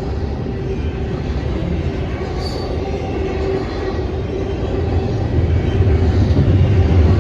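Freight train rolling past, a steady rumble of wheels and cars on the rail with a faint steady tone above it, growing louder about five seconds in.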